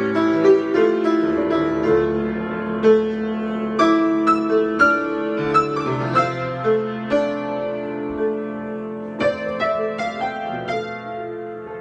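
Solo piano improvisation: chords and melody notes struck at an unhurried pace, each ringing on and fading, growing softer near the end.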